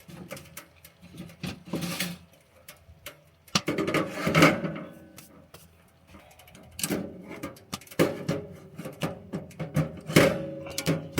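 Irregular knocks, clicks and clatter of things being handled and set down in a small cabin, with a few brief metallic rings.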